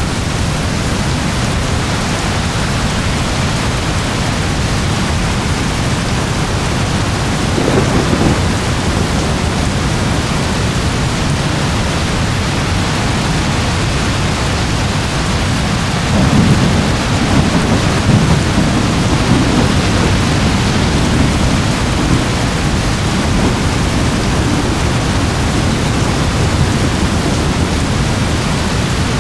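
Steady rain falling, with thunder rumbling low twice: a short rumble about eight seconds in and a longer rolling one from about sixteen to twenty-two seconds in.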